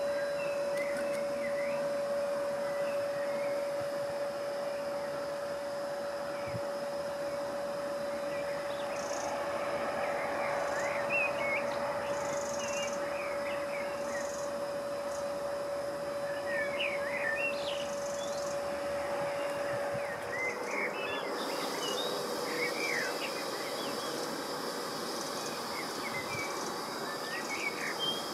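Small birds chirping on and off over steady outdoor background noise, with a steady hum at one pitch that stops about two-thirds of the way through.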